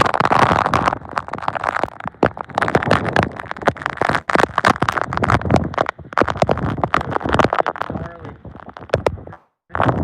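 Severe-storm wind and rain pelting the vehicle in dense, irregular hits over a steady rush of noise, cutting out briefly near the end.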